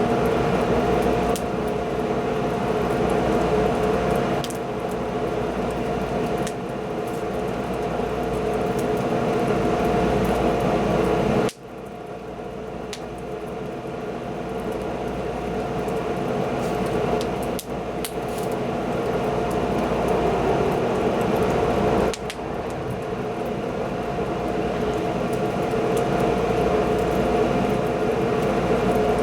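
Wood fire burning with a steady rushing hum and scattered sharp crackles. The sound drops suddenly several times, most clearly about a third of the way in, then builds back up.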